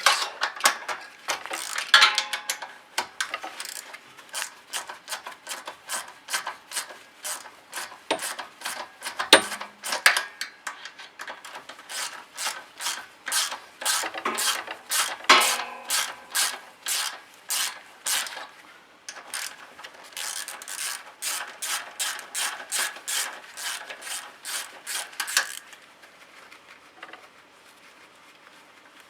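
A hand socket ratchet clicking in quick repeated strokes while working the small screws of a four-stroke snowblower engine's valve cover. A few louder metal knocks come among the clicks, and they stop a few seconds before the end.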